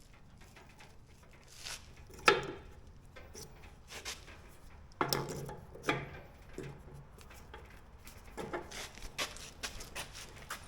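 A few scattered knocks and clinks of metal pins, shims and tools being handled while fitting skid steer quick-attach pins and bushings, the sharpest knock about two seconds in.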